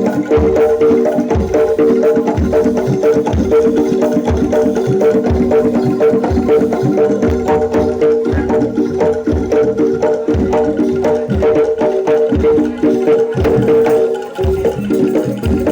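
Traditional Javanese jaranan dor music played live, with a steady run of low drum strokes under ringing gamelan metallophone tones.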